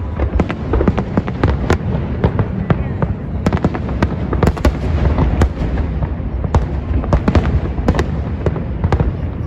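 Fireworks going off: rapid, irregular bangs and crackles, several a second, over a continuous low rumble.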